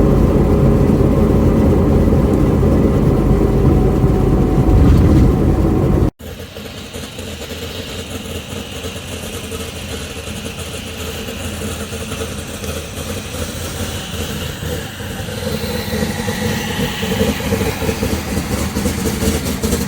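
2000 Pontiac Trans Am WS6's LS1 V8 engine running, loud and steady. About six seconds in the sound cuts abruptly to a quieter, steady engine sound that slowly grows louder.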